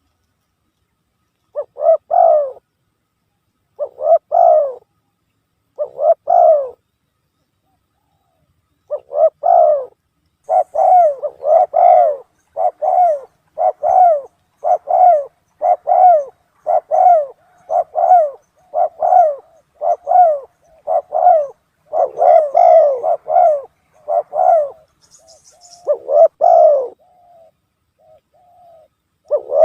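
Spotted dove (tekukur) cooing, played as a lure call: three coo phrases about two seconds apart, then after a short pause a steady run of coos roughly once a second.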